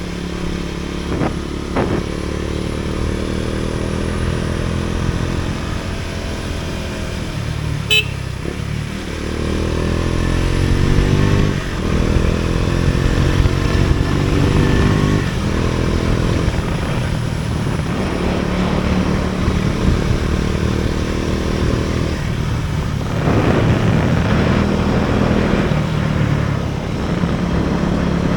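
Vehicle engine running on the move, its pitch rising and falling several times as it speeds up and changes gear, with a sharp click about eight seconds in.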